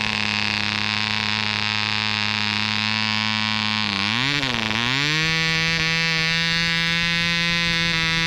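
Webra 1.5cc model airplane diesel engine running steadily at part throttle. About four seconds in its speed wavers briefly, then picks up and holds at a higher steady speed as the throttle is opened.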